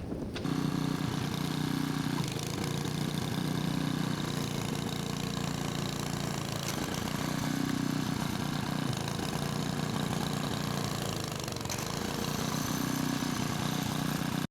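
An engine running steadily at an even, low pitch, like a vehicle idling.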